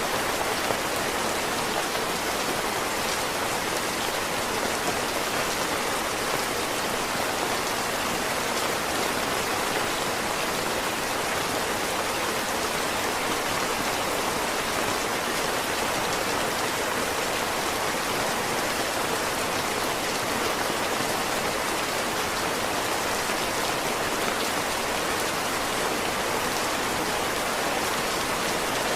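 Heavy rain falling steadily, a dense, even hiss of countless drops with no thunder or sudden sounds.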